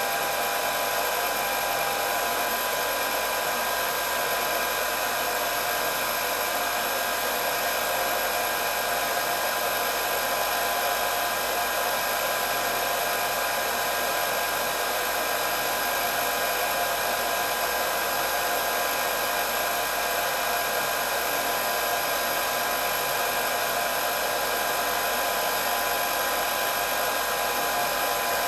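Hair dryer running steadily: an even rush of blown air with a constant high-pitched motor whine over it.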